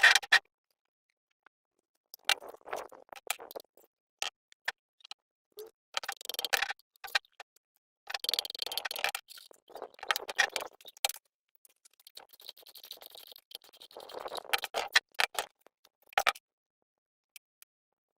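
Metal hand tools and generator engine parts clicking, ticking and scraping in short irregular bursts, with pauses between them.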